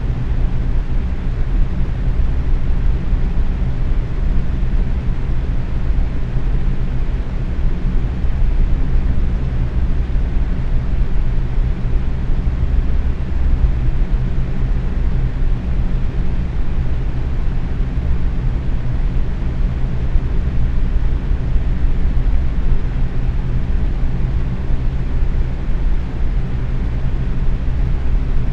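Box fan running at medium speed: a steady, unbroken rush of air, heaviest in the low range.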